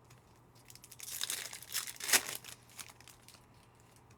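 Foil wrapper of a trading-card pack crinkling and tearing as the pack is opened, a burst of rustling starting about a second in and loudest near the middle.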